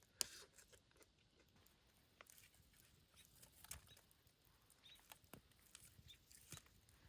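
Near silence with faint, scattered clicks and taps, the sharpest just after the start.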